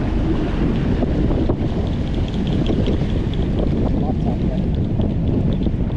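Steady wind buffeting the microphone over water sloshing around a jet ski at sea, with a few faint small ticks or splashes in the middle.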